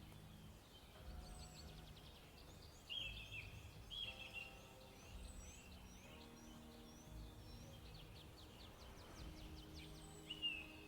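Faint wild birdsong: several birds chirping and trilling, with short downward whistles, and louder calls about three and four seconds in and again near the end. Soft sustained tones, like quiet background music, run underneath.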